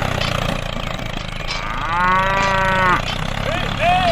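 A cow mooing once, a long call about a second and a half in, over a steady low engine hum.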